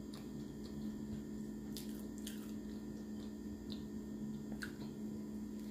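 Close mouth sounds of a person biting into and chewing a fried chicken sandwich, with a few short, faint clicks. A steady low hum runs underneath.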